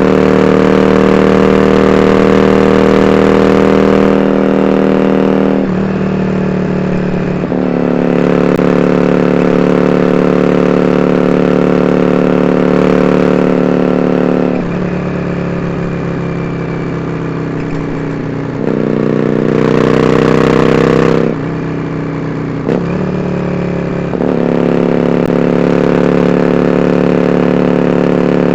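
Yamaha Drag Star 400 Classic's V-twin engine running through dual open-end Supertrap mufflers, holding steady engine speeds for several seconds at a time, with its pitch and loudness rising and falling several times.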